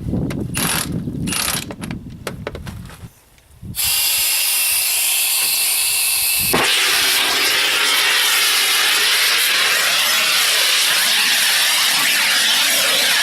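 A few knocks and clatter, then a blow torch: a loud, steady hiss starts about four seconds in, with a sharp pop a couple of seconds later, after which the hiss carries on steadily. The torch is heating a seized wheel nut on a tractor.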